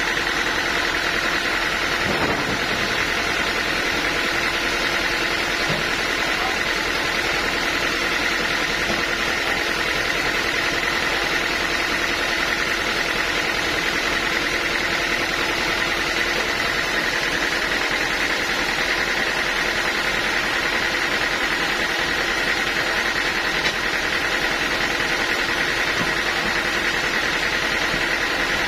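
Sawmill machinery running steadily, a constant engine-and-saw drone with a high steady whine over a lower hum that does not change.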